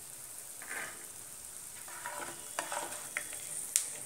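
Peanuts sizzling in a little hot oil in a nonstick frying pan, a steady hiss, while a spatula scrapes and scoops them across the pan. Several sharp clicks near the end.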